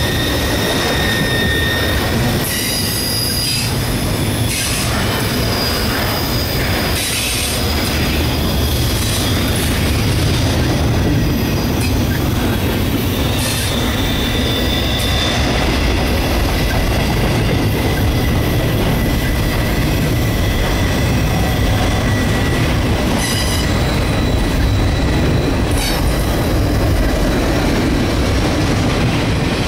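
Double-stack intermodal well cars rolling past close by: a steady rumble of steel wheels on rail, with thin high wheel squeal that comes and goes, and a few short clicks.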